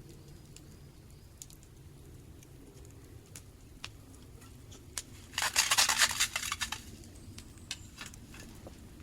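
Sausages frying over a campfire, with scattered pops and crackles. About five and a half seconds in there is a denser, louder burst of crackling that lasts a little over a second.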